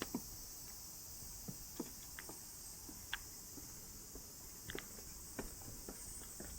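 Rain falling: a steady hiss with scattered, irregular drips and taps.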